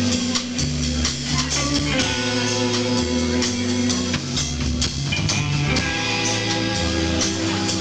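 Live rock band playing an instrumental passage: electric guitar over a bass line that changes note about once a second, with a steady drum-kit beat.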